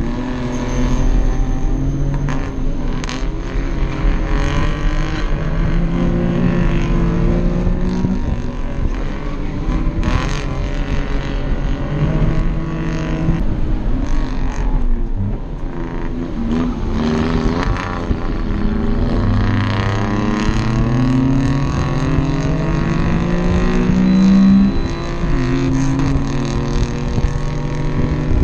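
Small kei-car engine heard from inside its own cabin at race pace. Its note climbs and falls back again and again as the car is driven hard through the gears, over road and wind noise.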